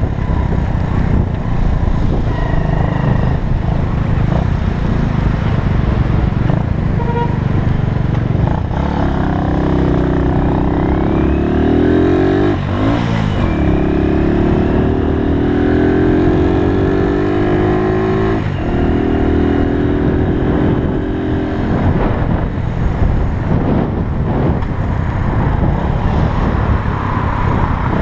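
A 1968 Honda S90's single-cylinder four-stroke engine under way, climbing in pitch and dropping sharply twice as it shifts up through the gears, under steady wind rush on the microphone.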